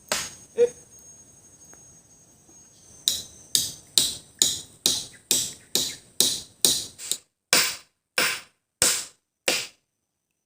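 Repeated blows of a tool striking wood: two near the start, then a steady run of about fifteen sharp blows, a little over two a second, stopping shortly before the end.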